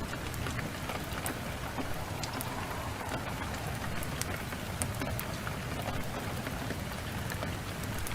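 Steady downpour of rain mixed with a crackling wood fire: sharp pops scattered through an even rushing hiss over a low rumble.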